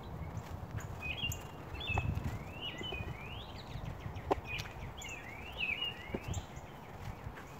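Small birds chirping over and over in short calls that sweep up and down in pitch, over a low steady rumble with a few soft knocks.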